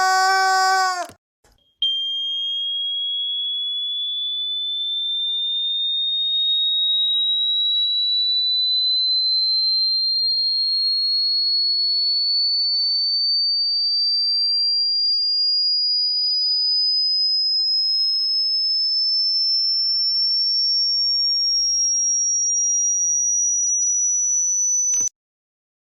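A pure, high-pitched electronic tone that climbs slowly and steadily in pitch for over twenty seconds, then cuts off suddenly. Before it starts, a loud buzzing tone ends abruptly about a second in.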